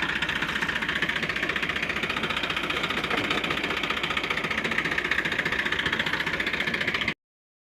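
Tractor engine running steadily with an even, rapid pulse, cutting off abruptly about seven seconds in.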